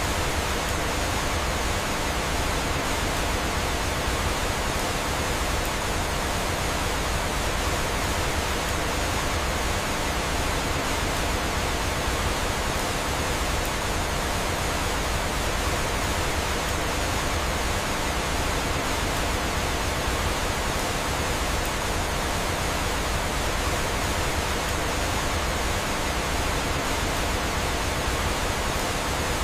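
Steady rushing of flowing water from a waterfall, an even hiss that holds without change.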